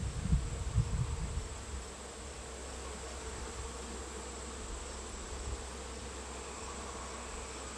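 A swarm of honeybees buzzing around an opened hive, a steady hum, with a few low bumps of handling over the first couple of seconds.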